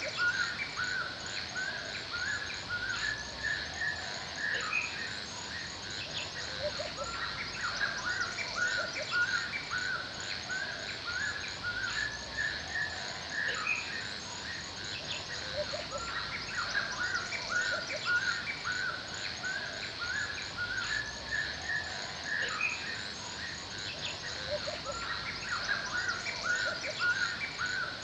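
Forest ambience: birds chirping in a dense run of short, repeated notes, over a steady high insect trill with quick even pulses.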